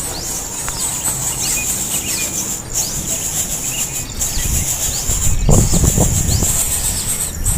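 Short, high bird chirps repeated every half second or so over a steady high-pitched insect drone, with a few low thumps or rustles about five and a half seconds in.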